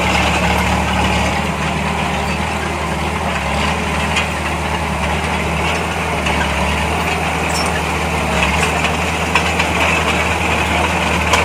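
Heavy diesel engine of earthmoving machinery running steadily at low speed, with a few light clicks over it.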